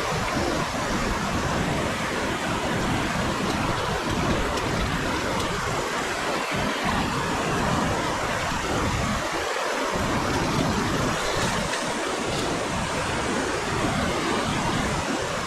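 Steady rushing of a whitewater river, water pouring and churning without a break, with some wind buffeting the microphone.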